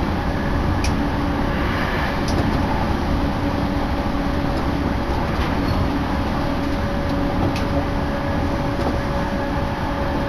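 Inside a moving electric commuter train: the steady running rumble of wheels on rails with a constant low hum, and a few faint clicks here and there.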